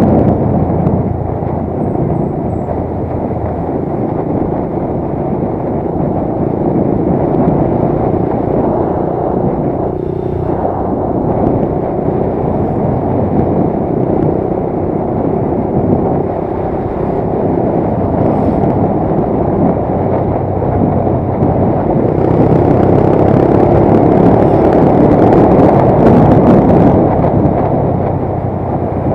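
Motorcycle riding along at road speed: a steady engine hum under road and wind noise on the microphone, getting a little louder about three quarters of the way through.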